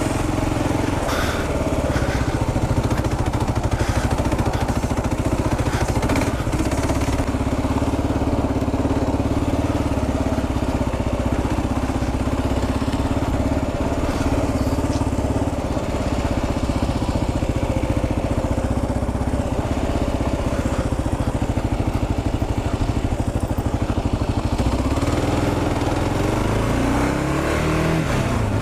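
Kawasaki KLR 650's single-cylinder four-stroke engine running steadily while the bike is ridden, its pitch shifting slightly with the throttle; near the end the revs climb.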